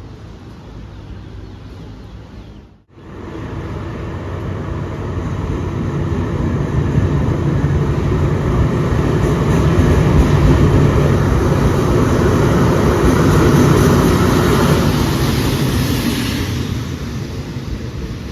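Diesel train passing close by: a steady engine rumble and running noise that builds up after a brief cut, stays loud for several seconds, then fades off near the end.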